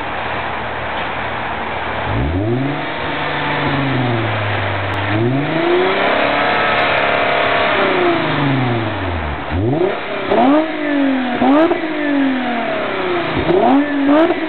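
Toyota Zero Crown's V6 engine revving through its custom-made rear muffler. The revs climb slowly, hold and drop back to idle, then a string of quick throttle blips follows, about one a second.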